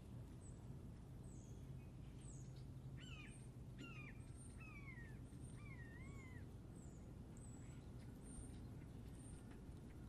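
Faint calls of small birds at a feeder: short high chips repeated throughout, with four lower, wavering calls between about three and six seconds in, over a low steady hum.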